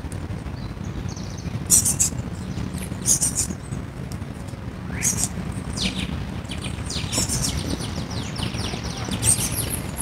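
Small birds chirping in short high bursts every second or two, with a quick run of repeated notes about seven seconds in, over a steady low rumble.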